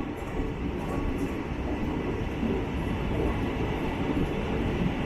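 Passenger express train running along the track: a steady rumble of the coach's wheels on the rails.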